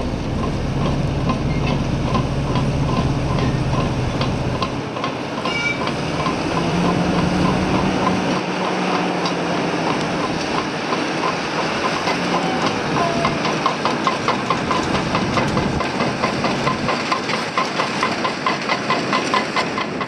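Train running on the rails, a steady rumble with a low hum and wheels clicking over rail joints in an even beat of about two to three a second that grows plainer towards the end.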